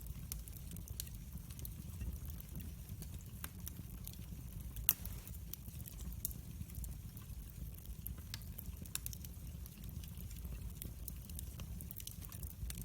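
Wood fire burning in a fireplace: a steady low rumble with frequent small crackles and one louder pop about five seconds in.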